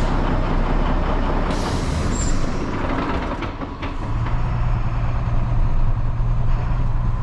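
Truck engine running, with a short hiss about two seconds in; about four seconds in a steady low hum sets in.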